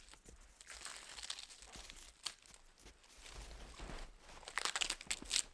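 Irregular crunching and crinkling of snow and dry wood or bark being handled, with a run of sharp crackles near the end.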